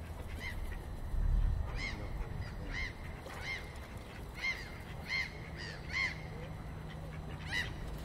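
Water birds calling repeatedly: about ten short, arched calls, each with a stack of overtones. A low rumble comes a little over a second in.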